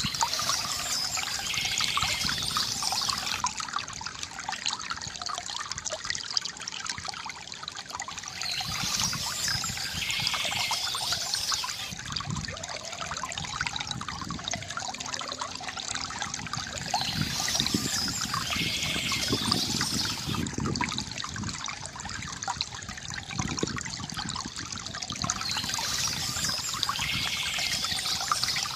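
Small stream trickling and babbling steadily over stones. A brighter, higher-pitched passage comes back about every eight seconds, four times.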